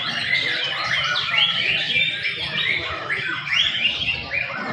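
Several young white-rumped shamas singing at once, a dense, unbroken tangle of quick whistles and chirps.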